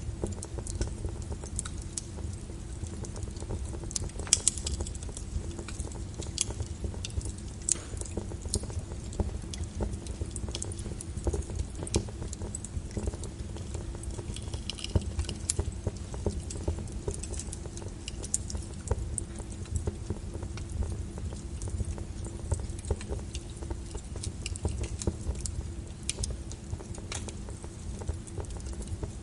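Burning wood fire crackling: irregular sharp pops and snaps over a steady low rumble, with one louder pop about four seconds in.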